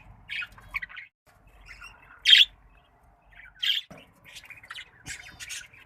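Budgies chirping and squawking in short separate calls, the loudest a little over two seconds in, with a quick run of chirps near the end.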